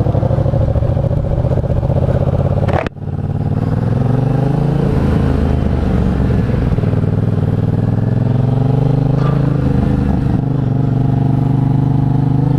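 Motorcycle engine running under way. Its pitch climbs and eases off twice as the rider works the throttle, with a sudden brief dropout about three seconds in.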